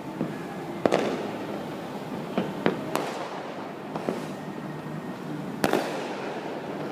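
Fireworks and firecrackers going off: about eight sharp, irregular bangs over a steady background hum, the loudest about a second in and again near the end.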